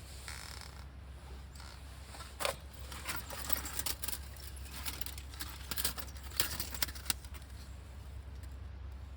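Irregular sharp clicks and light clinks, several in quick succession between about two and a half and seven seconds in, over a steady low hum.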